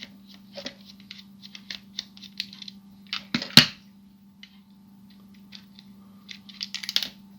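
Small plastic clicks and taps of a screwdriver working the screws out of a plastic Transformers toy and handling its parts, with one sharper click about three and a half seconds in. A steady low hum runs underneath.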